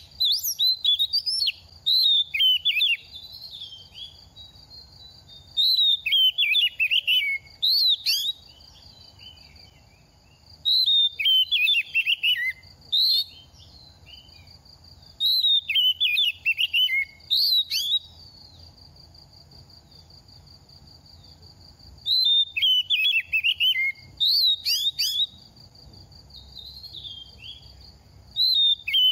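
Oriental magpie-robin singing in short bursts of rapid, varied whistled phrases, each two to three seconds long with pauses between. A steady high-pitched buzz runs behind the pauses.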